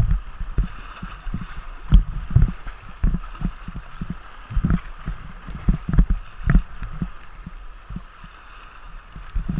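Irregular low thumps and knocks over a steady hiss of moving river water, on a tandem kayak being paddled down a river.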